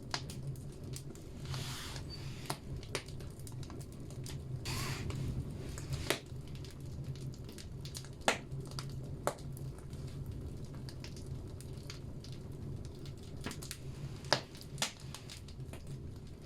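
Firewood burning in a bathhouse wood stove: a steady low rumble from the fire, with scattered sharp pops and crackles from the logs and two brief hisses in the first five seconds.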